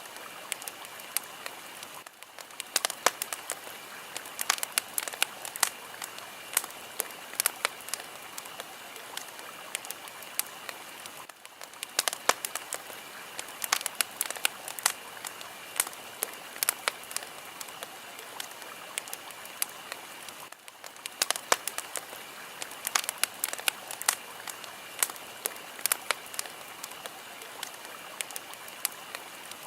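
Fire crackling, with frequent sharp pops and snaps over a steady hiss. The hiss drops out briefly about every nine seconds, as at a loop seam.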